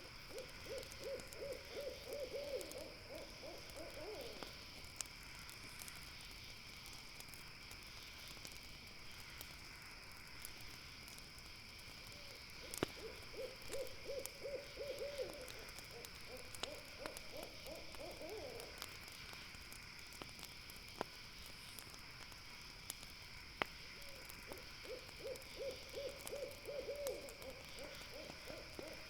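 An owl giving a rapid trilled call three times, each bout a quick run of notes lasting about four seconds. Under it a steady insect chorus, with a few sharp campfire crackles.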